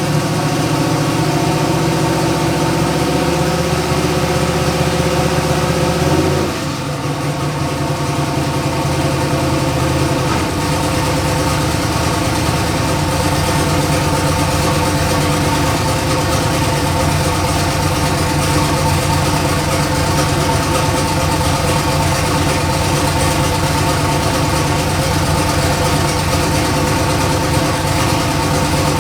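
Turbocharged LS V8 engine idling steadily in a Chevy S10 drag truck. About six and a half seconds in the level dips briefly and the engine note changes, shifting again about ten seconds in.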